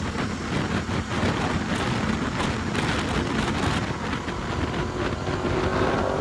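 Wind rushing over the microphone of a rider at speed on a Ducati Diavel motorcycle, with the bike's engine running steadily underneath.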